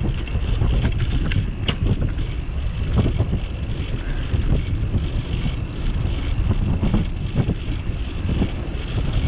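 Wind rushing over the microphone of a bicycle-mounted camera while riding, a steady low rumble with scattered light clicks and knocks throughout.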